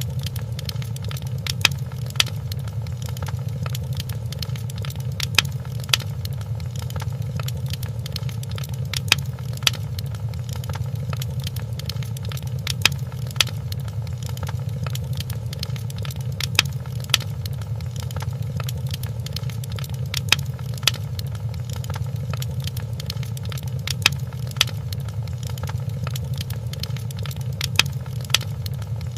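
Wood fire crackling in a fireplace: a steady low rumble with scattered small crackles. Pairs of louder sharp pops recur evenly about every four seconds, the mark of a short recording played in a loop.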